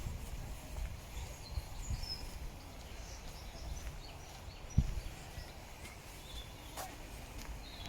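Birds chirping here and there in a park, over a low uneven rumble, with one sharp low thump about five seconds in.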